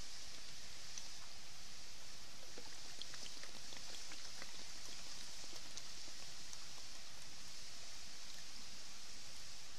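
Hamburger patty sizzling over a campfire: a steady hiss with faint small crackles.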